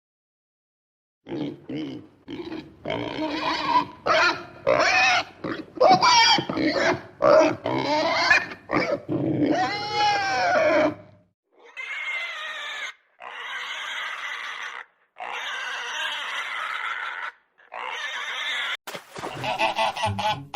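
Pigs grunting and squealing in a quick run of short calls, followed by several longer, harsher squeals of about a second and a half each.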